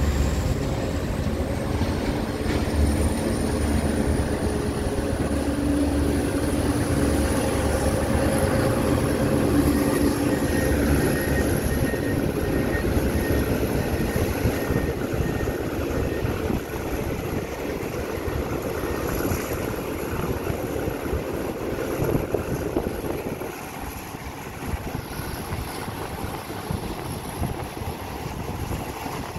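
Passenger train pulling away from a station, heard from an open carriage window: a steady diesel locomotive engine working under load with a thin high whine that rises in pitch over the first ten seconds or so. About two-thirds of the way through the engine sound drops away, leaving a quieter rumble of the moving train.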